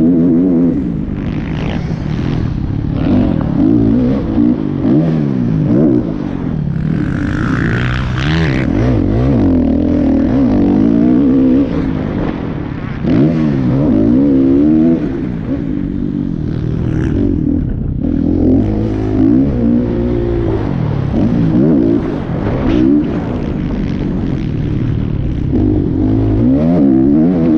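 Motocross dirt bike engines revving hard, their pitch repeatedly climbing and dropping, with more than one bike heard at once.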